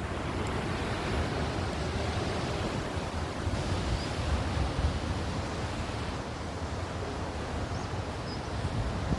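Sea waves surging and breaking on the shore, a steady rushing that swells and eases. Wind buffets the microphone, adding an uneven low rumble.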